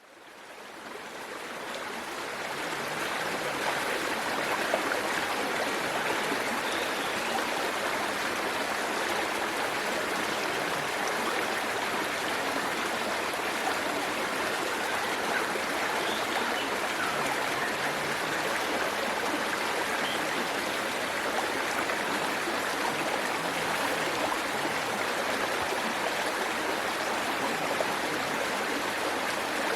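Waterfall water rushing steadily, fading in over the first few seconds.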